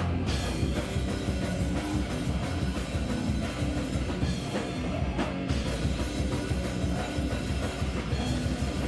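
Live band playing loud, dense noise rock: a drum kit hit in quick succession under a thick, continuous wall of distorted sound.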